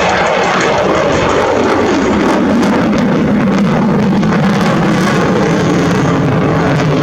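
Loud jet noise from an F-22 Raptor's twin Pratt & Whitney F119 turbofans. Its pitch falls over the first few seconds, then holds steady.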